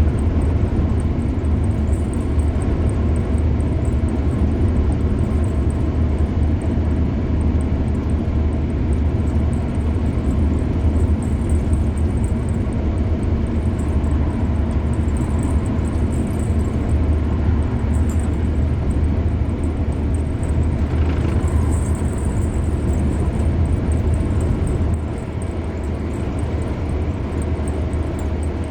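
Car driving at speed on a highway: a steady low rumble of tyres on the road surface and the running engine, easing slightly quieter near the end.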